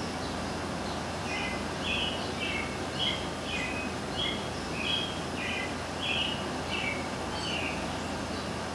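A bird chirping a string of about a dozen short, quick notes, starting about a second in, over a steady hiss of background noise.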